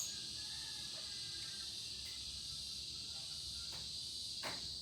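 Quiet, steady high-pitched hiss, with one faint click about four and a half seconds in.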